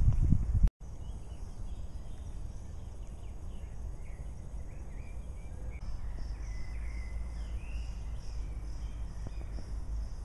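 Small birds chirping and singing over a steady low rumble, with a quicker run of high repeated chirps starting about halfway through. A louder low rumble at the very start cuts off abruptly less than a second in.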